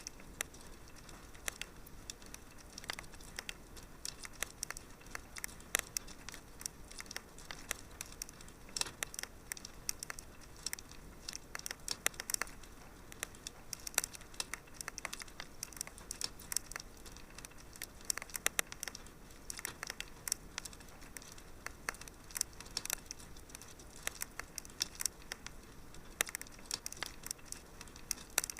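Wood fire crackling in a fireplace: a constant hiss of burning with frequent small, irregular snaps and pops, a few sharper ones scattered through.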